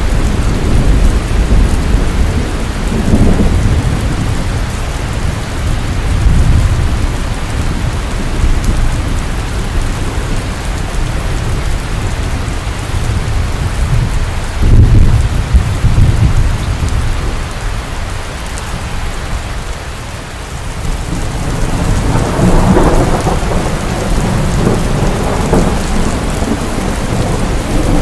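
Steady heavy rain with thunder rumbling several times over it, the strongest rumble about halfway through and a longer one near the end.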